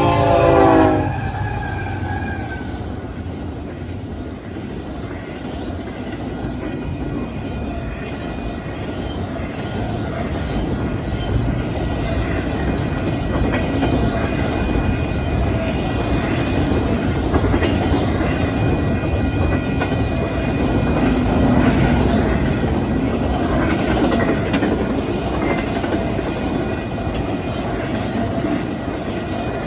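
A freight train's horn ends about a second in. The locomotive and a double-stack intermodal container train then roll past close by, their steel wheels rumbling and clacking over the rails and the crossing.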